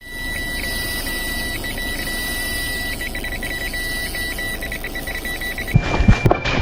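Electronic carp bite alarm sounding a steady high tone that breaks into rapid beeps, the sign of a fish taking line on a run. Near the end the tone jumps slightly higher and loud knocks and handling noise join in.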